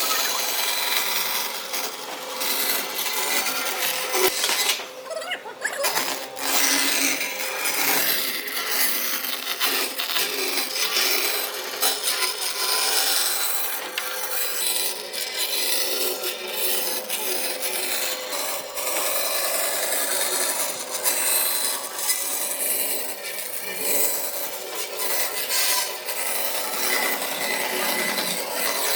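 A tool scraping and rubbing on wood without pause, its loudness rising and falling unevenly from stroke to stroke.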